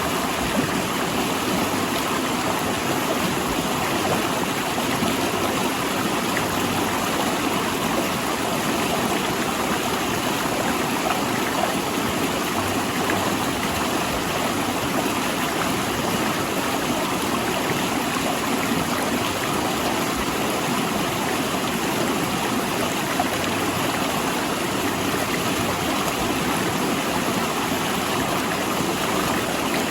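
A river rushing and gurgling over and between large rocks, a steady full-bodied rush of water with no breaks.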